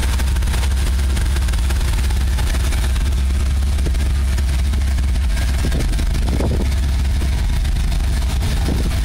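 Ford 400 (6.6 L) V8 truck engine running steadily at idle, its sound sitting mostly low and deep.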